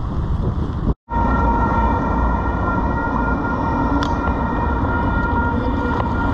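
Wind buffeting the microphone. After a sudden cut about a second in, a passing light rail train with a steady whine of several tones over street noise.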